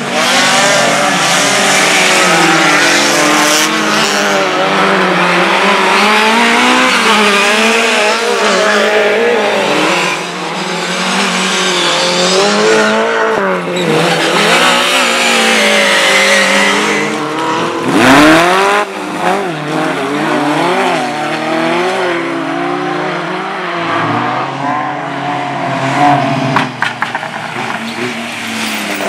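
Several race car engines revving hard, their pitch rising and falling with gear changes and throttle as the cars race. The loudest moment comes about two-thirds of the way through, when one car accelerates hard close by.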